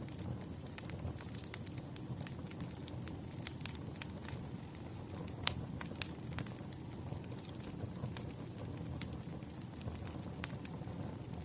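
Burning firewood crackling: irregular sharp pops and snaps over a steady low rumble of the flames, with one louder pop about halfway through.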